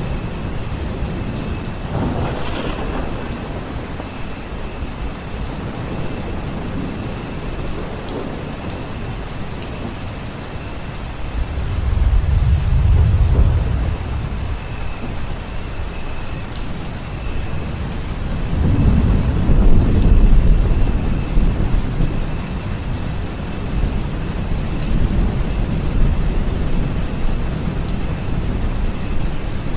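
Steady heavy rain falling, with thunder rumbling low twice, about twelve seconds in and again about nineteen seconds in.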